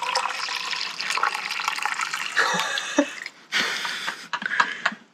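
Liquid being poured into a container while making French press coffee: one long pour, then two short ones near the end.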